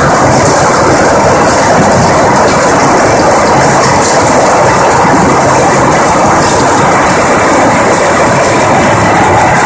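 Hailstorm with heavy rain: a loud, steady, dense clatter of hailstones striking hard surfaces.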